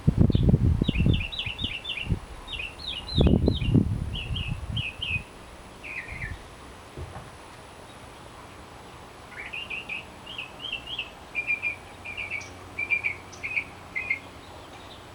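Songbirds singing: several runs of quick, repeated whistled phrases, with pauses between songs. Two loud bursts of low rumble come at the start and about three seconds in.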